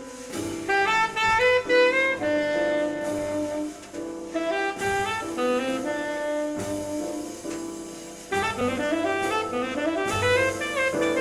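Jazz played from a vinyl record on a turntable through a hi-fi system: a saxophone carries the melody in quick runs of notes, climbing in several rising runs near the end.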